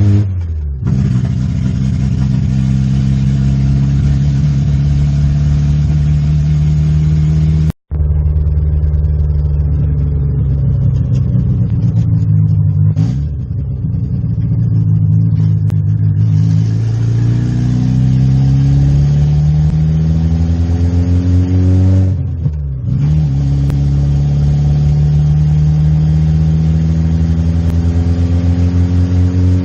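Big-cam VW 2.0 AEG four-cylinder engine pulling a car under way. It holds a steady note at first, then climbs in pitch under acceleration for several seconds. A sudden drop in revs around two-thirds of the way through marks a gear change, and the engine settles into a steady note again.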